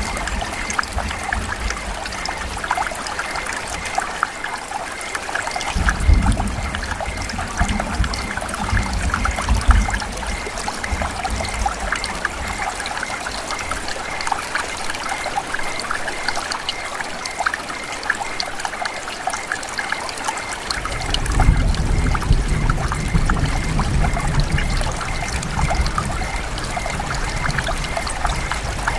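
Steady rain falling in a forest, a dense spread of individual drops ticking. A low rumble swells in twice, once about six seconds in for a few seconds and again from about twenty seconds on.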